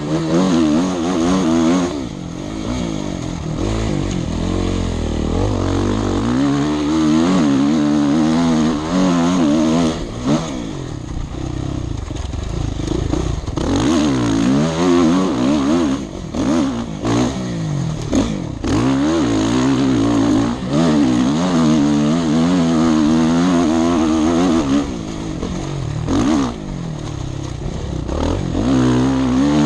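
Motorcycle engine revving up and down as it is ridden hard, the pitch rising with each burst of throttle and dropping at shifts and throttle-offs, with several short breaks in the sound.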